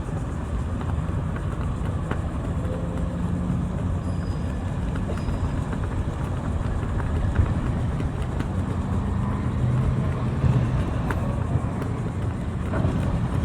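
An engine idling with a steady low hum, the pitch shifting slightly around the middle.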